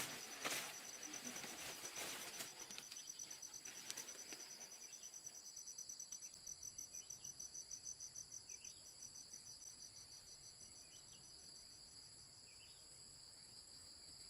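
Insects trilling steadily: a high-pitched, rapidly pulsing chorus. A few knocks and rustles come in the first few seconds, and faint short chirps are heard later.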